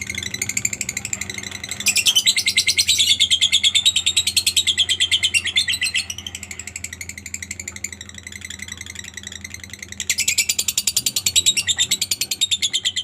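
Lovebird chattering in one long unbroken trill of rapid, shrill notes, the 'ngekek' song kept by lovebird fanciers. The trill grows louder about two seconds in, drops back around six seconds, and swells again about ten seconds in.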